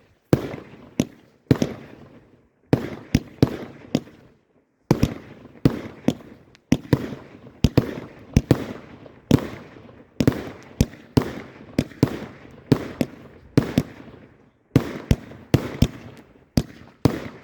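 A 25-shot Golden Rain firework cake firing: a rapid run of sharp bangs, about two a second with a few brief pauses, each dying away quickly.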